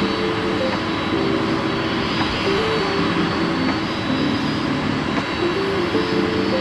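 Jet airliner engines running with a steady noise and a faint, steady high whine.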